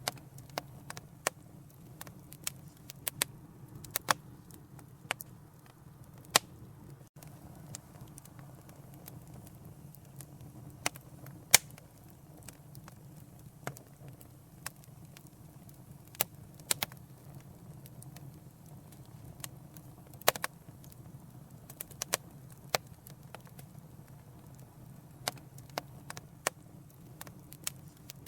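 Fireplace fire crackling: sharp, irregular pops and snaps, up to a few a second, over a steady low rumble of the flames. The loudest snap comes about midway.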